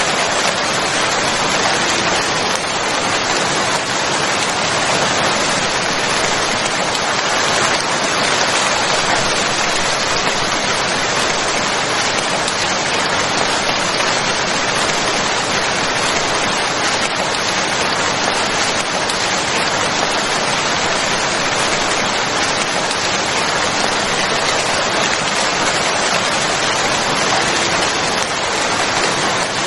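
Steady, even rain falling, a dense unbroken hiss of drops.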